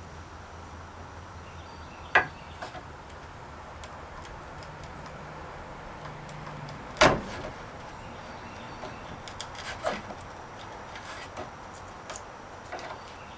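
Scattered sharp knocks and clicks of a metal mortise lock body being worked into a wooden door's mortise, the loudest about seven seconds in, over a steady low hum.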